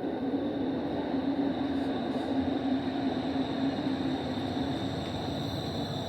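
TTC rail car running, a steady rumble with a low hum that fades about five seconds in and a faint high whine above it.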